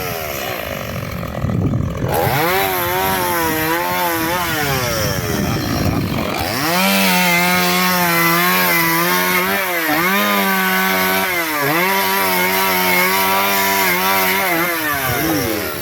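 Chainsaw engine revving up and down, then held at high speed through a cut into firewood, its pitch dipping briefly twice as the chain bites, and easing off near the end.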